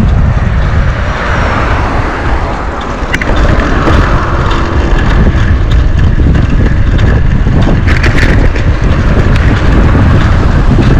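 Wind buffeting the microphone during a bicycle ride, a loud, continuous low rumble, with a couple of sharp clicks or rattles about three and eight seconds in.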